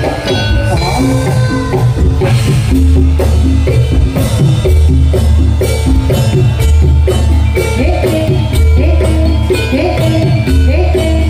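Loud live jathilan accompaniment music: drums beating steadily under short, repeating melodic figures of pitched notes.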